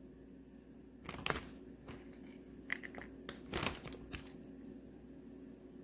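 Plastic bag crinkling in a few short bursts as chopped wax melt pieces are put into it and handled, the loudest burst about three and a half seconds in.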